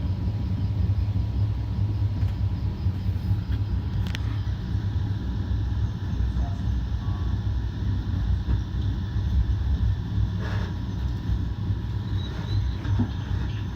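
Steady low rumble of a Metra commuter train coach in motion, heard from inside the car, with one sharp click about four seconds in.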